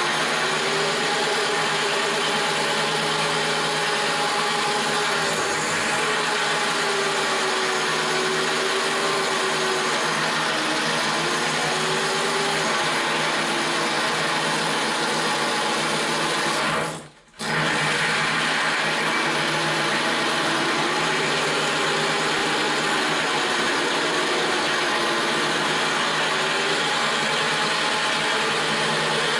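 Corded DeWalt drill running at low speed with a diamond-coated bit grinding into porcelain tile. The motor pitch wanders up and down, and the sound cuts out briefly about two-thirds of the way through.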